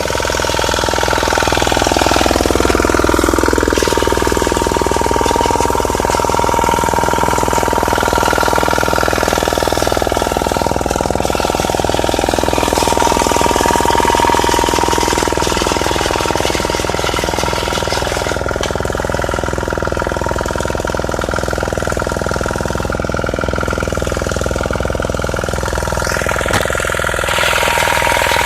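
Honda generator engine running steadily, its pitch dipping and climbing back about two to four seconds in. The mechanic judges the engine worn out and expects it may stall.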